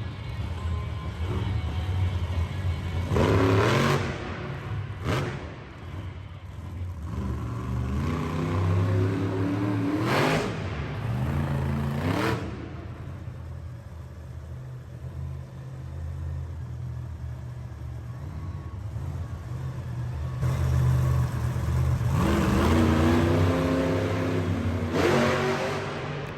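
Monster truck's big 9-litre engine revving hard again and again, its note climbing steeply with each rev, between stretches of steadier low running.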